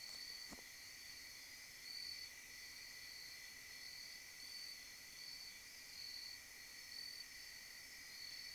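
Faint steady chorus of night insects such as crickets, with a higher chirp pulsing about one and a half times a second over a constant buzz. A single faint click comes about half a second in.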